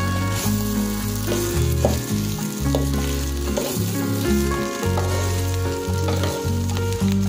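Fried rice sizzling in a metal wok while a spatula stirs and scrapes it, with short scraping taps. Background music with a steady, stepping bass line plays under it.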